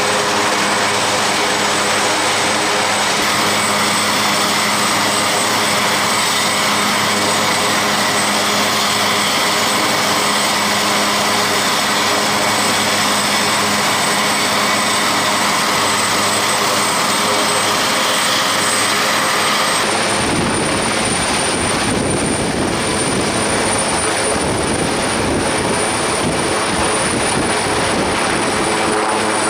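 Aircraft turbine engines whining steadily at a fixed pitch, then, after a sudden change about twenty seconds in, helicopter rotors beating in a fast, even pulse over a broad rush of engine noise, typical of an RAF Puma HC2.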